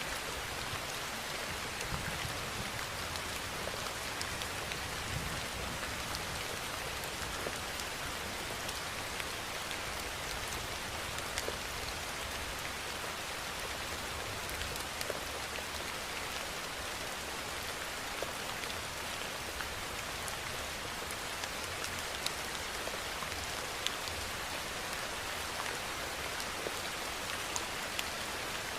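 Steady rain falling, an even hiss with scattered sharper drop ticks, no thunder.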